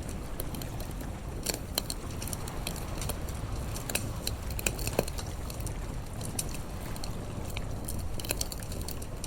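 Wood fire crackling, with irregular sharp snaps and pops over a low steady rumble; the loudest pop comes about five seconds in.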